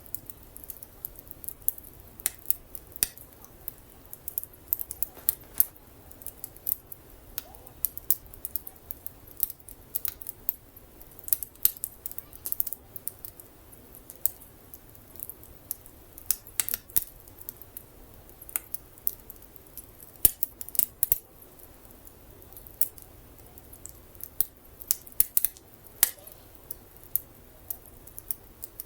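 Wood fire crackling, with frequent sharp pops and snaps at irregular intervals.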